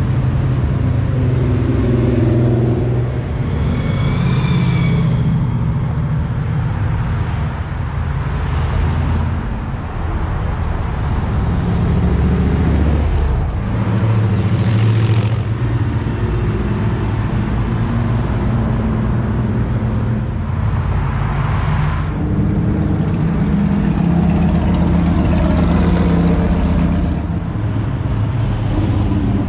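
Motor vehicle engine running while driving, its pitch rising and falling several times as the throttle opens and closes. A brief wavering high tone sounds about four seconds in.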